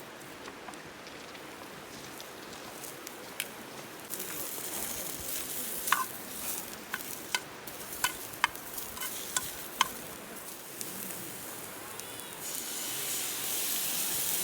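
Beef steak sizzling in a pan over a campfire. The sizzle swells about four seconds in and again near the end, with several sharp metal clicks in the middle as the meat is handled.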